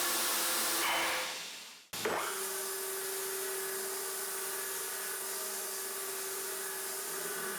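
CNC milling with a high-feed milling cutter: a steady hiss of cutting and machine noise with a steady hum, fading out about a second and a half in, then cutting back in just after two seconds as a steady hiss with a single steady tone.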